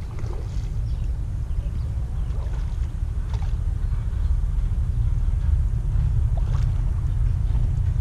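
Steady low rumble of wind buffeting the microphone outdoors, with a few faint small clicks over it.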